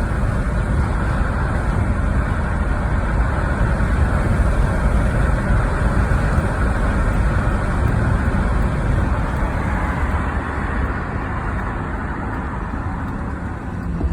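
Steady road traffic noise: a constant low rumble from passing vehicles, with no siren heard.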